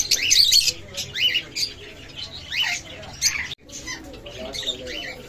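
Pet birds chirping and squawking: a busy run of short, pitch-bending calls, thickest in the first second, thinning later with a brief break about three and a half seconds in.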